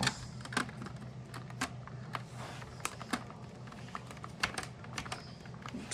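Irregular plastic clicks and knocks as a part is worked back onto a Shark Rotator Professional Lift-Away vacuum, over a low steady hum.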